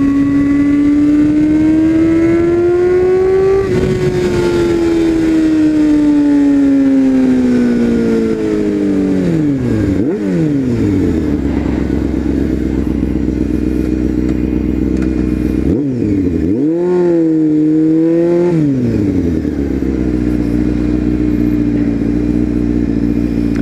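Honda CBR sport bike engine with a loud exhaust, on the move. It rises a little in pitch over the first few seconds, then winds down as the bike slows, and settles to a steady idle about ten seconds in. A single short throttle blip comes around sixteen seconds, after which it idles steadily again.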